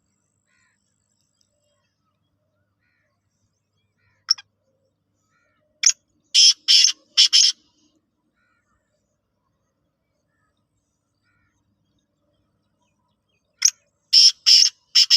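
A bird calling in runs of short calls: a single call about four seconds in, four or five quick calls about two seconds later, then another run of about five calls near the end.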